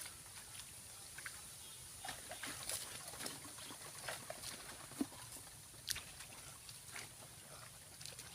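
Small splashes and sloshing of shallow paddy water as someone wades through it searching for fish, a few sharper splashes among them, over a faint steady high hiss.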